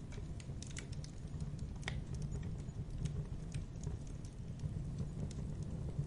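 Wood fire burning in a fireplace: a steady low rumble of the flames with scattered sharp crackles and pops at irregular moments.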